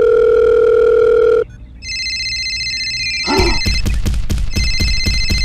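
Telephone call sound effects. A loud, steady beep of a calling tone lasts about a second and a half, then after a short gap a phone rings: a high tone of several notes, which turns into a fast trilling ring about three seconds in.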